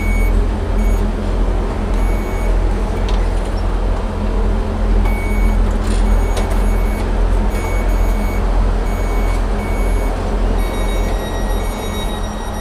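Class 158 diesel multiple unit's underfloor diesel engine running at idle with a steady low hum, while the train's door warning beeps sound repeatedly in short runs of high beeps as the doors are about to close.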